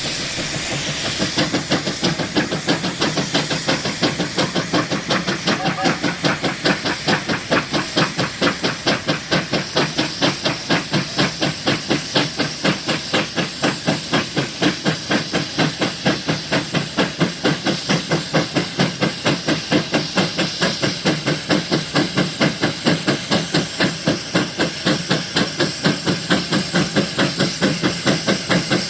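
1919 McLaren steam road locomotive's exhaust beating steadily and rapidly under heavy load, a rhythmic chuff over a steam hiss that starts about a second in.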